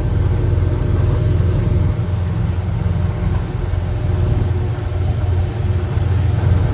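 Truck engine idling: a steady low rumble that carries on without change.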